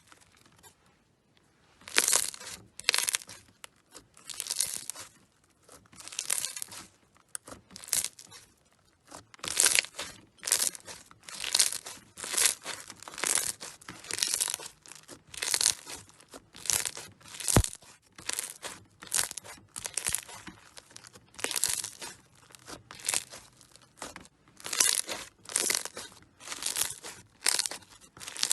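Slime being squeezed and pressed by hand, making a run of short, noisy bursts about one or two a second, beginning about two seconds in.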